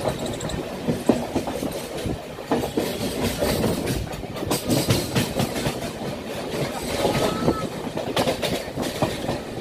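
Wheels of a moving train clattering over the rails: a continuous rumble with runs of sharp clickety-clack in the middle and again near the end.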